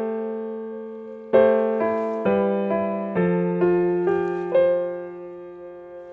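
Slow, gentle solo piano music. A held chord fades, then notes are struck about twice a second, each ringing and dying away.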